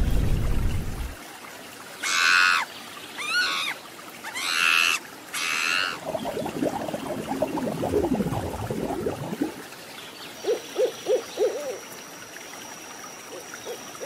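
Owl calls: four harsh, hissing screeches of about half a second each, then, later, four short low hoots in quick succession.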